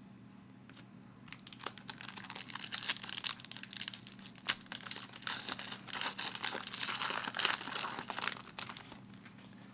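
Hockey card pack wrapper crinkling and tearing as the pack is opened: a run of crackling with sharp little clicks that starts about a second in and stops near the end.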